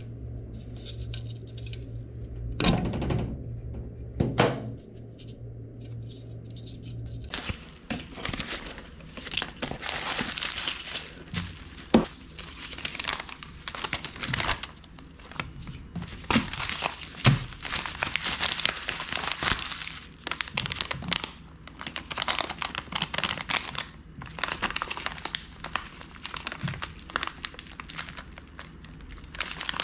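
Crinkling and rustling handling noise with many scattered clicks and small knocks, starting about seven seconds in. Before that, a low steady hum and two sharp knocks.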